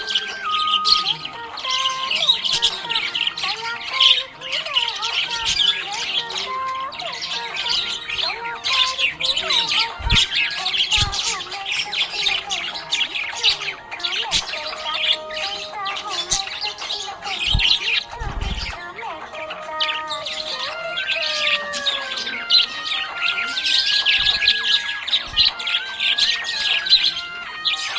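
Budgerigar chirping and chattering non-stop in quick, high twittering notes, over background music with a slow melody.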